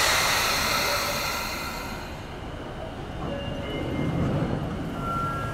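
A stopped Sotetsu electric commuter train gives a sudden loud hiss of compressed air that fades away over about two seconds. A steady high tone starts near the end.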